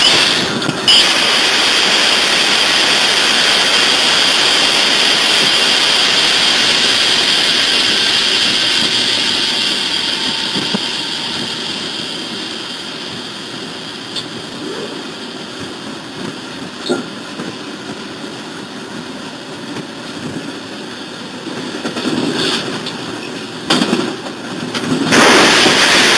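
Diesel locomotive running down the line, heard from the cab as a steady rushing rumble with a hiss, fading gradually over the middle. Near the end come several sudden loud bursts of noise, the last and loudest about a second before the end.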